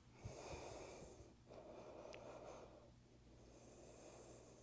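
Faint, slow breathing of a woman holding a yoga pose: three long breaths, each lasting about a second, with a couple of soft low thumps near the start.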